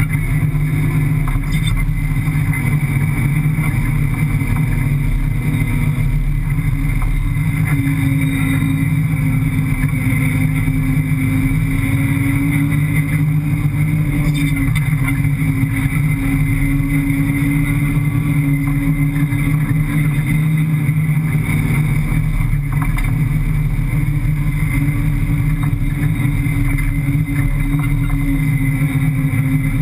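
A 5.7-litre Hemi V8 rally car engine running under load while driving over sand dunes, heard from inside the cabin, its pitch holding fairly steady with only slight rises and falls.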